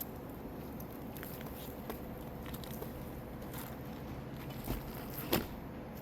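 Hands handling a roof shingle and roofing materials: light scraping and crackling with scattered small ticks, a dull knock near the end and a sharp click just after it.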